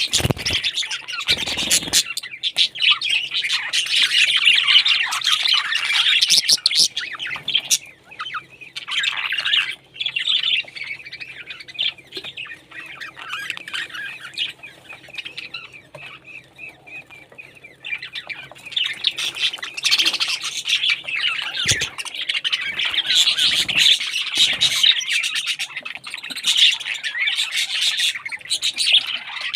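A group of parrots calling over one another with squawks and chirps, thinning to a quieter stretch in the middle before picking up again. A few low thumps come near the start and again later on.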